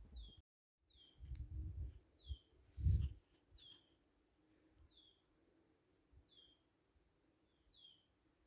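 A songbird repeating a two-part call over and over, a short high steady note followed by a falling slur, about once a second. Low rumbling bumps come and go underneath, the loudest about three seconds in, and the sound drops out for a moment near the start.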